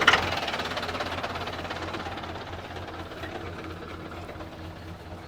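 An engine running with a steady low hum, its noise loudest at the start and fading over the next few seconds.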